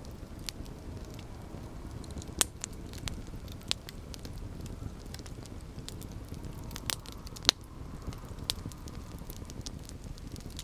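Campfire burning with a steady low rumble and scattered sharp wood crackles and snaps, two of them louder than the rest.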